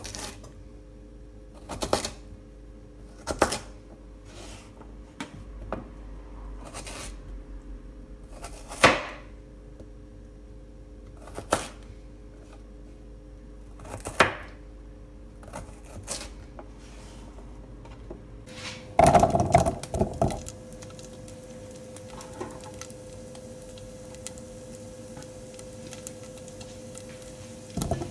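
Sparse sharp clicks and knocks of objects being handled, one every second or two, over a steady hum. About two thirds of the way in, a short cluster of louder knocks comes, and the hum changes to a steadier tone.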